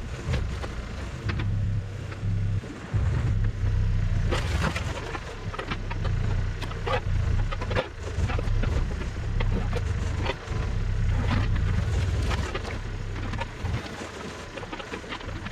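Heavy machine's engine running steadily, with frequent metallic clanks and rattles over it.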